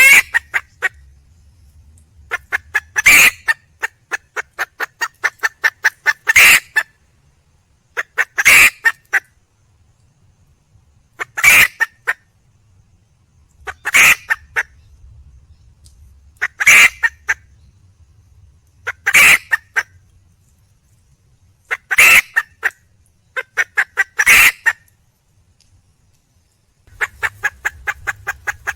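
Wild junglefowl hen calling for a mate: repeated bouts of rapid clucks, about eight a second, each bout climbing to one loud squawk, coming back every two and a half to three seconds.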